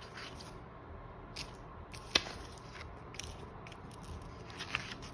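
Handling noise from unpacking boxed speakers: scattered small clicks and rustles of packaging, with one sharp click about two seconds in.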